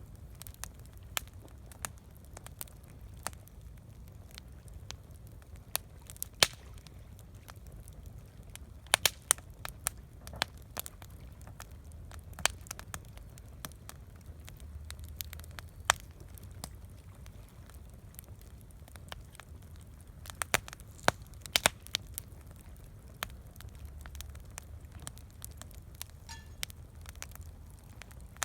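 Wood campfire burning, with irregular sharp crackles and pops from the burning wood over a steady low rumble.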